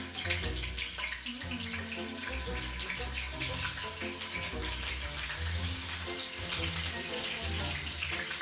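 Cubes of firm tofu frying in hot cooking oil in a pan: a steady sizzle full of small crackles and spatters. Background music with a low bass line runs underneath.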